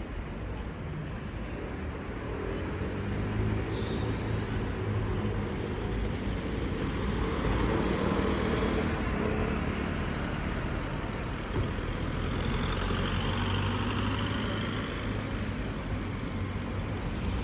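Steady outdoor traffic noise: a continuous rumble of passing motor vehicles that swells a little partway through.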